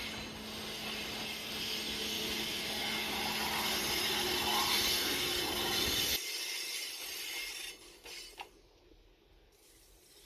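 A freight train hauled by a JR Freight EF210 'Momotaro' electric locomotive running past: a steady rush of wheels on rails with a faint hum, building to a peak. The low rumble cuts off suddenly about six seconds in, and the rest fades away over the next two seconds.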